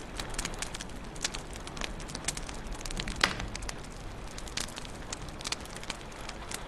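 Wood fire crackling in a fireplace: frequent sharp pops and snaps over a soft low rumble, the loudest pop about three seconds in.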